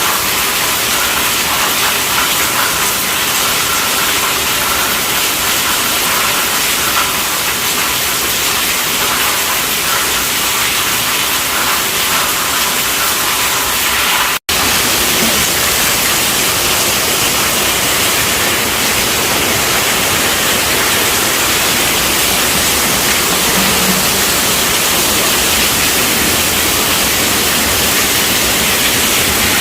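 Steady heavy rainfall: a dense, even hiss. It drops out for a split second about halfway through, then resumes with a slightly different texture, like a splice between two takes.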